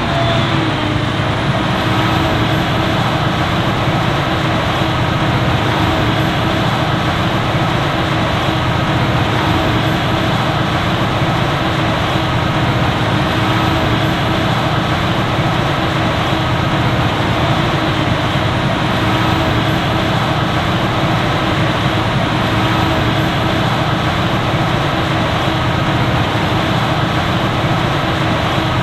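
Heavy diesel farm machinery working at maize harvest, a forage harvester and tractors with silage trailers: a loud, unbroken drone with a steady hum in it.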